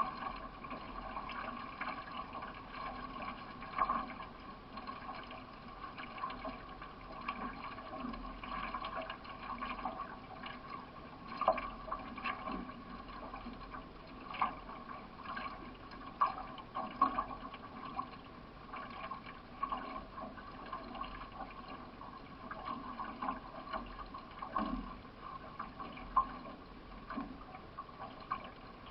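Water splashing and washing around a solo racing canoe as it is paddled, a steady wash broken by occasional sharper splashes every few seconds.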